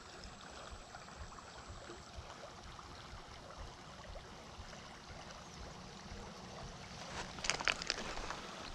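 Faint, steady rush of a small creek's flowing water, with a brief cluster of sharp clicks about seven and a half seconds in.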